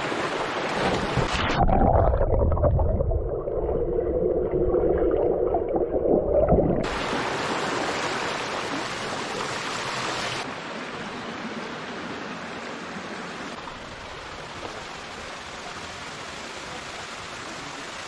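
Rushing water of a small waterfall pouring into a rock pool. About a second and a half in, the sound turns muffled and gurgling for about five seconds as the microphone goes under the water. Then the open rush of falling water comes back.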